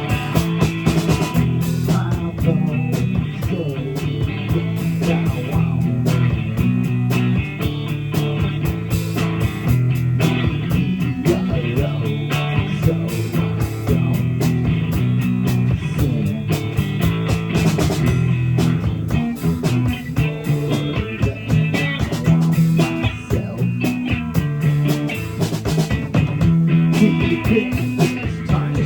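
Live blues-rock band playing an instrumental passage: electric guitar over a drum kit keeping a steady beat.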